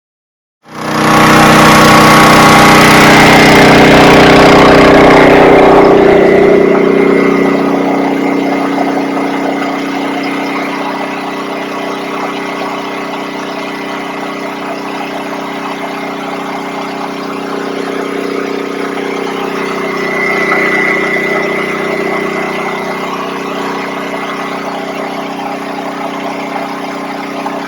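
An engine running steadily, cutting in abruptly at the start, loud for the first several seconds and then settling lower.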